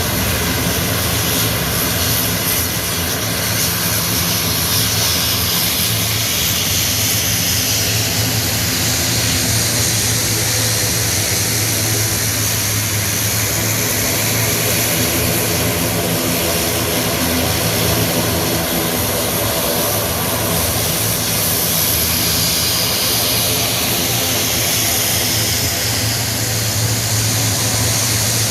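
Twin-engine turboprop transport aircraft of the CN235/CN295 family flying in formation, their engines and propellers giving a steady low hum over a broad rushing hiss.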